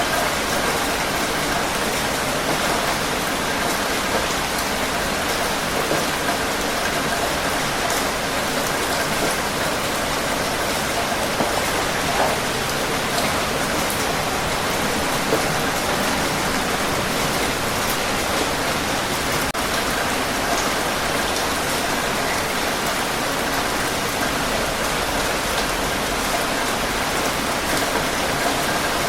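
Steady rain falling, a continuous even hiss with scattered drop ticks on a surface.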